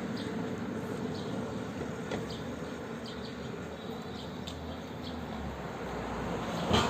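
Outdoor street background of traffic, with small birds chirping briefly now and then and a short sharp noise near the end.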